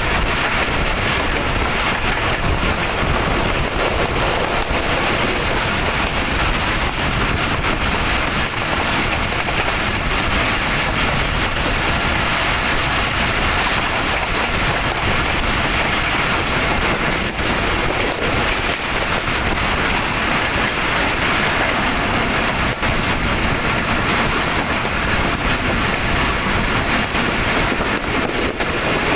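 Passenger train coach of the Khyber Mail running along the track, heard from an open window: a steady loud rush of wheels on rail and wind, with occasional faint clicks over rail joints and points.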